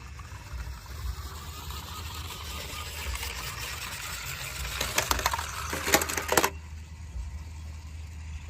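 Small diecast toy vehicles being handled, with a rising scraping hiss and then a quick run of clicks and rattles that stops suddenly. A low hum runs underneath.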